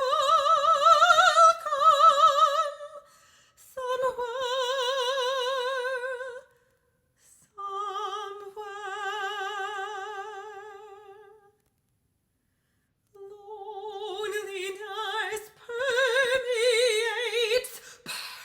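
Unaccompanied classical female voice singing long, held notes with a wide vibrato, in separate phrases with short silences between them and a longer pause a little past the middle.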